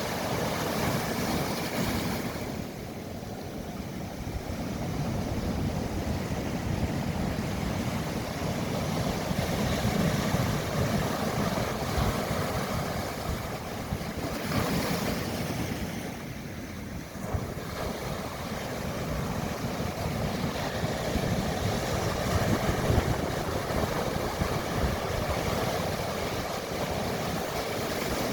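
Mediterranean Sea surf: waves breaking and washing in, the noise swelling and easing every several seconds.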